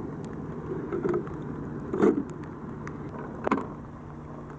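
Two short knocks of items being handled in an opened geocache container, over a steady low hum.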